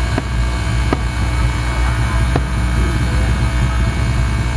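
Fireworks display heard at a distance: a steady low rumble with about three faint sharp pops.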